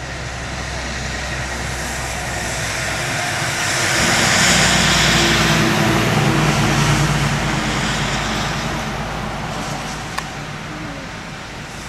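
An engine running steadily, joined about four seconds in by louder low engine tones and a rushing noise that swells and then slowly fades.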